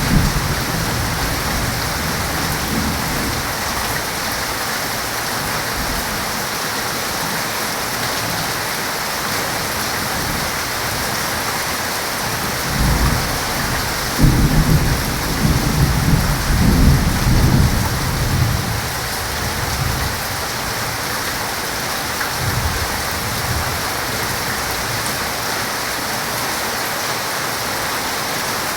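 Heavy rain falling in a steady, even hiss. A thunder rumble sounds at the very start, and a longer rolling rumble comes about 13 seconds in, strongest around 14 to 18 seconds, before fading back to rain alone.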